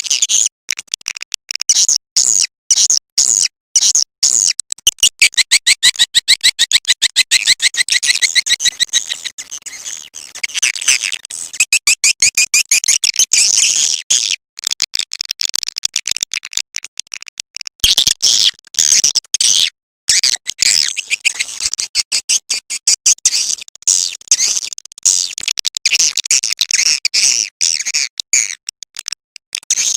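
Swiftlet call-sound recording: dense, rapid high twittering and chirping of edible-nest swiftlets, with a few brief breaks near the middle. It is the kind of call track played in a swiftlet house to lure the birds in.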